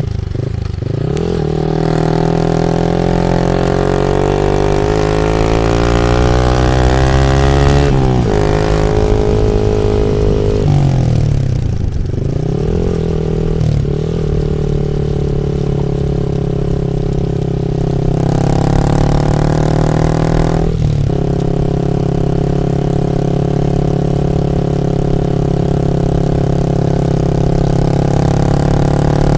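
Yamaha MT-15 V2's 155 cc single-cylinder engine through an Akrapovic full exhaust system, its note climbing for several seconds and dropping sharply about eight seconds in, then rising and falling a few more times between long steady stretches.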